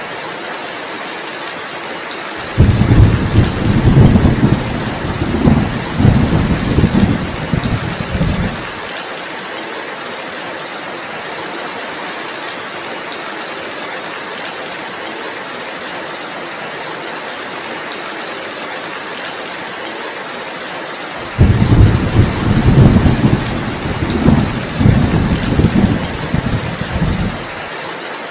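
Steady heavy rain with two long rolls of thunder, each lasting about six seconds, the first a couple of seconds in and the second near the end; both start and stop abruptly.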